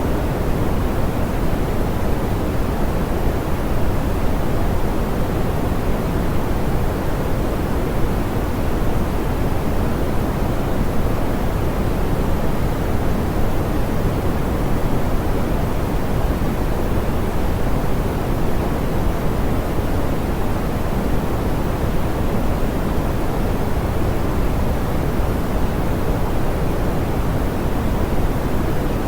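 Steady, smoothed pink noise: an even, unchanging hiss weighted toward the low end, softer in the highs.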